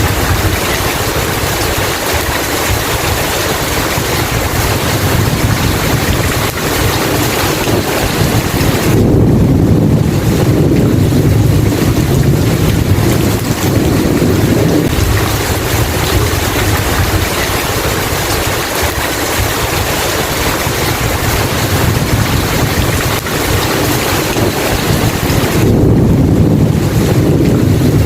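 Heavy rain falling steadily, with low rolling thunder swelling up about nine seconds in for several seconds and again near the end.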